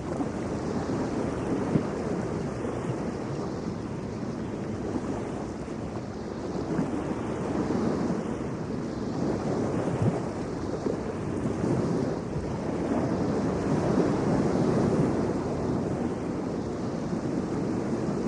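Atlantic Ocean surf washing ashore: a continuous rush of breaking waves that slowly swells and eases.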